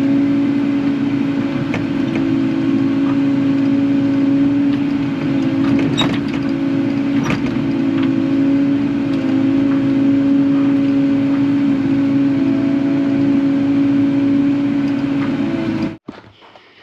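Kubota KX080 excavator's diesel engine running steadily while digging, with a couple of sharp clanks midway. It cuts off suddenly near the end.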